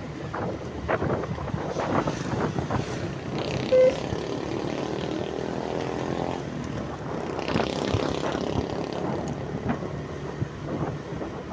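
Vehicle noise with wind buffeting the microphone and scattered knocks. A short, loud steady tone sounds about four seconds in, and a pitched engine sound rises and fades between about four and seven seconds.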